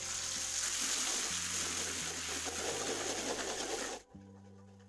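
Red ground spice paste sizzling in hot oil in a wok as it is stirred, a loud, steady sizzle that cuts off suddenly about four seconds in.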